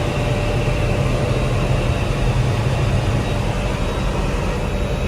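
Helicopter in cruise flight heard from inside the cabin: a steady drone of engine and rotor with a constant low hum and a faint high whine.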